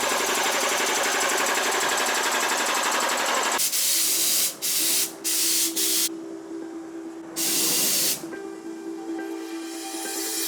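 Air compressor running with a fast, even rattle; from about three and a half seconds in, about four short blasts of compressed air hiss out over a steady tone.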